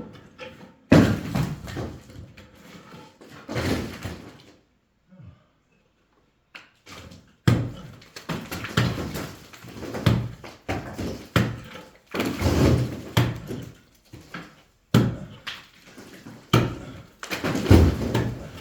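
Heavy knocks and thuds at irregular intervals, each trailing off in a short rattle, from a brick wall being broken down by hand.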